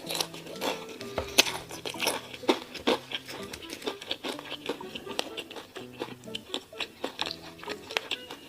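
Close-miked eating sounds, a quick run of sharp crunches and crinkles from biting into and handling fried chicken and a hamburger, over background music with held notes.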